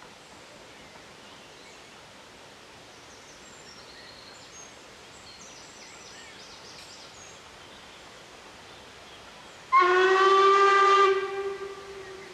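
Steam locomotive whistle, the Ivatt Class 2 2-6-2 tank engine 41313's, blown once: a sudden loud blast of about a second and a half that fades to a fainter lower note. Faint bird chirps can be heard before it over quiet open-air background.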